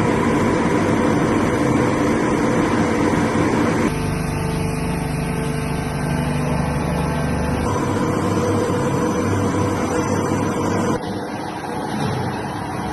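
Steady mechanical hum of motor-driven machinery running, its tone and loudness changing abruptly three times, about four, eight and eleven seconds in.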